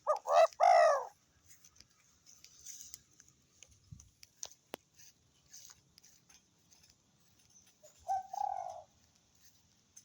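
Spotted dove cooing: a loud call in the first second, then another shorter coo about eight seconds in, with a few faint clicks between.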